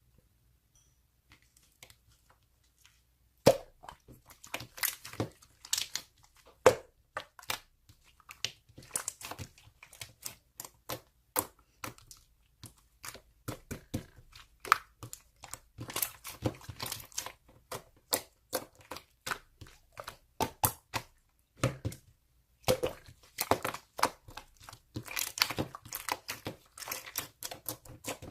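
Slime being squished and worked by hand, giving a dense, irregular string of crackling clicks and pops. It starts about three and a half seconds in after a near-quiet start and pauses briefly a little past halfway.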